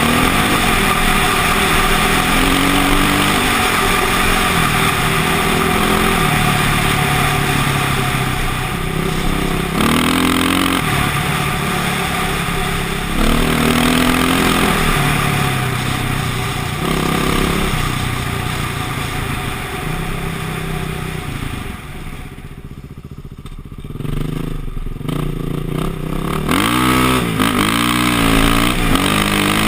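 KTM dirt bike engine being ridden hard off-road, its pitch climbing and falling again and again as the throttle is opened and closed. A little past two-thirds of the way it drops back and goes quieter for about two seconds, then picks up again with quick rapid blips of the throttle.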